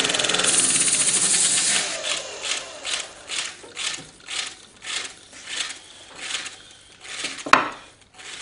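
Disc sander coasting down after its disc has been cleaned. A steady loud rush gives way after about two seconds to a fading rhythmic swish, roughly twice a second, as the disc slows, and one sharp click comes near the end.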